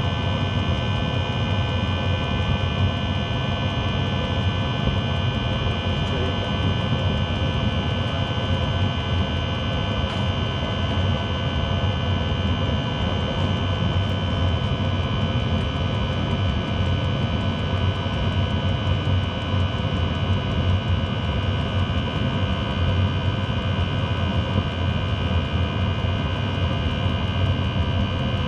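Motorhome diesel air heater running steadily with a jet-engine-like roar and a high steady whine over a low hum. The owner puts the noise down to a worn bearing.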